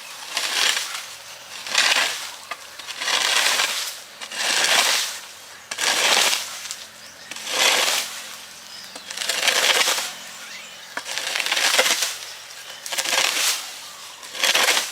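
Digging tool scraping and chopping into soil and plant debris in regular strokes, about ten of them, one every second and a half or so, while the ground is cleared.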